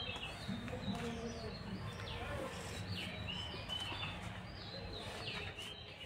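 Small birds chirping, short high calls repeated every second or so over a low background hum.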